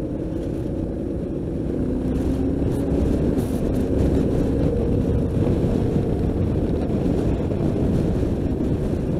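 Yamaha Ténéré 700 motorcycle's parallel-twin engine running steadily as the bike is ridden, with wind buffeting the microphone.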